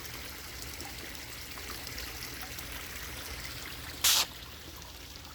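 Water trickling and running steadily. About four seconds in, a short loud rush of noise cuts across it.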